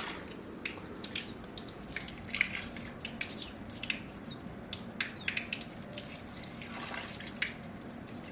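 A few faint, brief high peeps from a rescued baby bird, over scattered soft clicks and drips of water.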